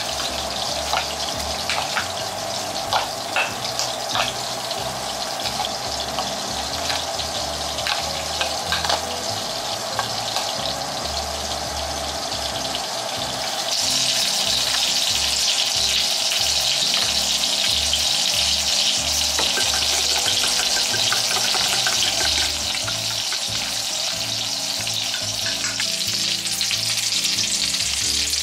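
A spoon stirring and clicking in a plastic mixing bowl, then, about halfway through, a sudden switch to loud, steady sizzling of minced-meat patties frying in a pan.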